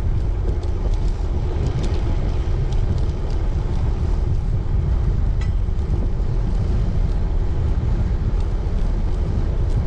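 Wind rumbling steadily on the microphone of a moving road bicycle, with a few faint ticks over it.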